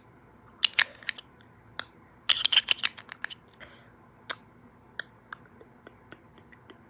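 A stamp being handled and pressed down: scattered short, sharp clicks and taps, with a quick run of them about two and a half seconds in.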